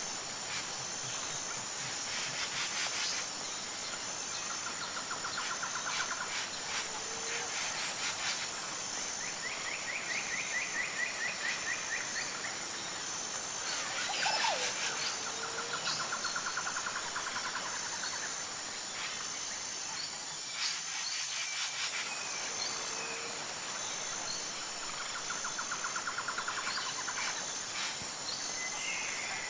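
Tropical rainforest ambience: a steady high-pitched insect chorus, with birds calling over it in short trills every few seconds and an occasional short low call.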